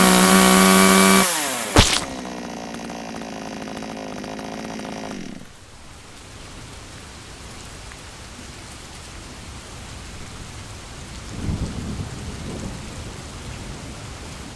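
Two-stroke chainsaw running at high revs, dropping in pitch about a second in, with a sharp knock just after. It then runs slower and quieter and stops about five seconds in. A steady rain-like hiss with low rumbles follows.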